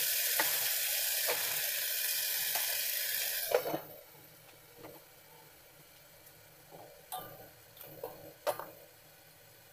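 Chicken and choy sum sizzling loudly in a hot wok, with a few light clicks. About three and a half seconds in, a clunk as the glass lid goes on, and the sizzle drops suddenly to a faint hiss with a few small ticks.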